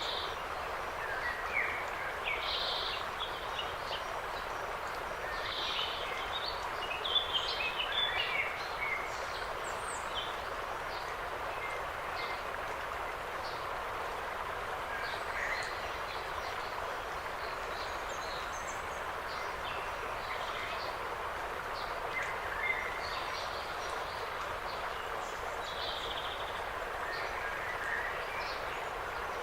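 Forest birds chirping and calling in short, scattered notes over a steady background hiss, with a busier run of calls about seven to nine seconds in.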